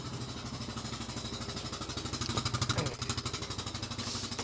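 A vehicle engine idling steadily, with an even chugging pulse.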